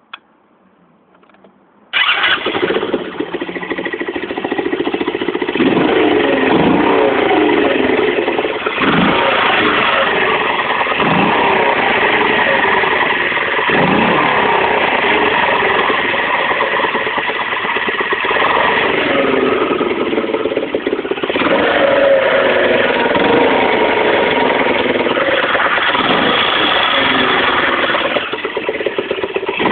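ZiD moped's small two-stroke engine catching suddenly about two seconds in, after a few faint clicks, then running steadily. Its revs rise and fall briefly several times.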